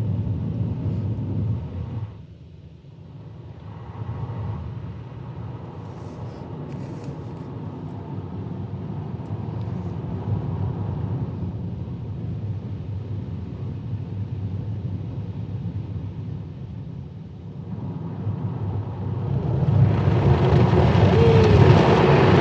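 Automatic car wash heard from inside the car: the rotating brushes give a low rumble against the body. A louder, hissier rush builds near the end.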